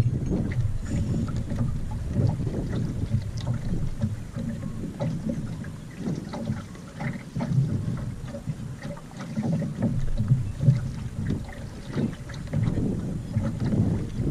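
Wind buffeting the microphone aboard a small sailboat under sail, an uneven rumble that rises and falls in gusts, with faint scattered knocks and water sounds from the boat.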